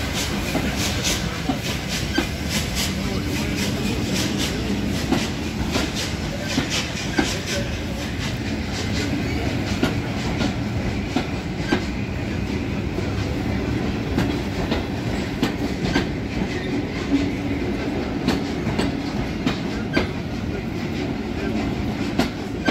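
Carriages of a steam-hauled heritage train rolling past, their wheels clicking over the rail joints in a run of repeated clicks over a steady rumble.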